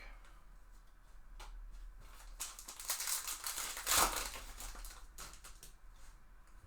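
Trading cards and their crinkly pack wrapper being handled: a rustling crackle that builds about two and a half seconds in and peaks with a sharp crinkle around four seconds, with scattered small clicks around it.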